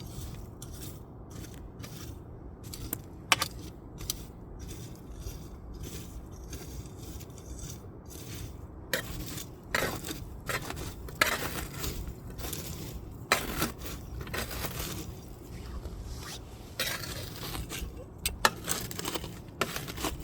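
Wood fire crackling: sharp pops and snaps over a low steady rumble of burning, the pops coming thicker and louder from about halfway through.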